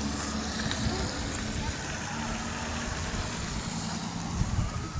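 Outdoor street noise with a steady vehicle-like hum and indistinct voices. A faint, slow rising wail, like a distant siren, comes in during the second half.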